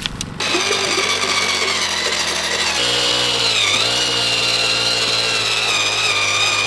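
Powered earth auger running as it bores into rocky clay, its pitch stepping up partway through and sagging briefly as it loads.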